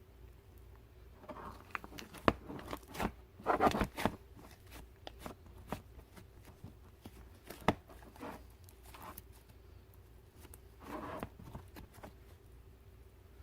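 Clay-mixed bubble slime being squeezed and stretched by hand: soft squishing with sharp pops and clicks, the loudest cluster a few seconds in and a single sharp pop near the middle.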